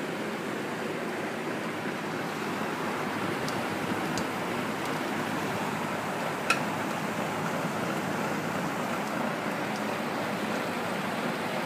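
Vintage Rex belt-driven window exhaust fan running steadily with a rushing of air, and a few sharp knocks, the loudest about six and a half seconds in. The knocking is something with the motor shaft, which the owner suspects comes from worn thrust washers or worn motor bearings.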